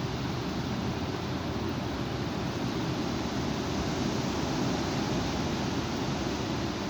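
Strong wind blowing, a steady rushing noise with no let-up.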